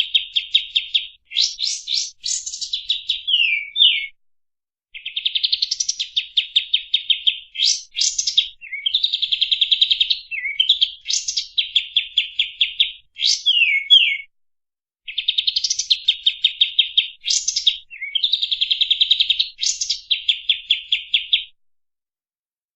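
Kapas tembak songbird singing long phrases of fast, rapid-fire repeated notes and trills, with short pauses between phrases. It stops shortly before the end.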